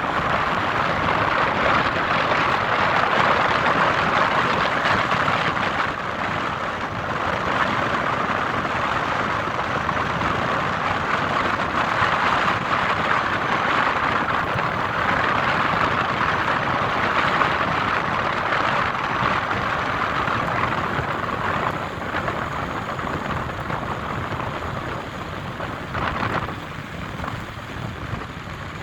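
Steady rushing hiss of a downtown street in a heavy snowstorm: traffic with tyres on wet, slushy roads, easing off a little near the end.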